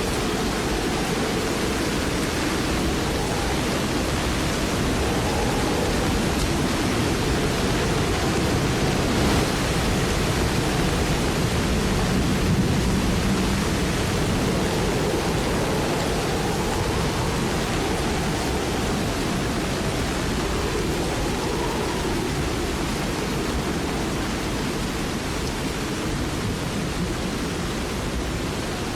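Steady rushing storm noise of wind and heavy rain. It swells a little mid-way and eases off toward the end, with faint wavering tones in the background.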